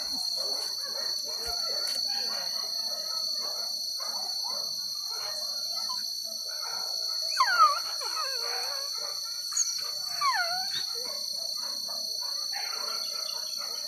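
Hunting dogs baying and yelping on a boar hunt, many short calls overlapping, with two loud falling yelps about seven and a half and ten seconds in. A steady high insect buzz runs underneath.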